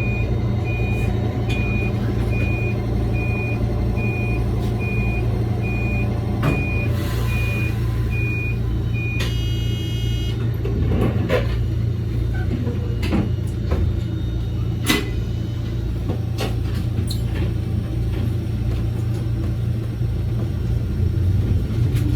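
Electric train running on the Toyama Chiho Railway, with a steady low hum. An electronic beep repeats about twice a second and stops about nine seconds in, followed by a brief chime-like tone and a few knocks. Near the end a motor whine rises in pitch as the train picks up speed.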